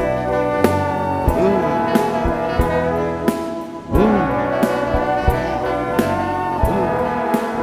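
Live band music: sustained brass chords with sliding pitches over a steady beat of drum hits, about one every two-thirds of a second.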